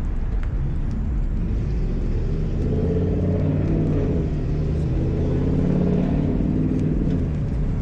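A car engine running at low speed over a steady low rumble. Its note swells from about two and a half seconds in and fades near the end.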